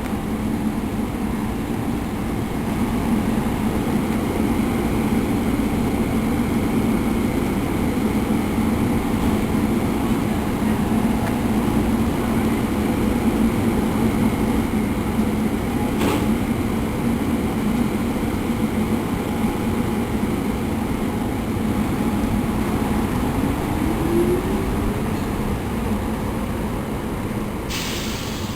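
A train running steadily, a continuous low hum with a sharp click a little past halfway and a short rising whine late on.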